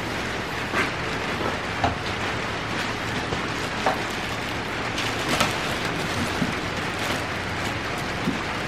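Heavy rain falling steadily, with a few sharper drops and taps scattered through it.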